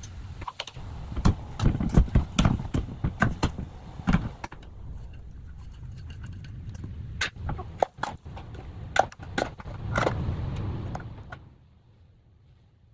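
Wind rumbling on the microphone, with a run of irregular knocks and clatters from handling things. It all drops away to a faint background about eleven seconds in.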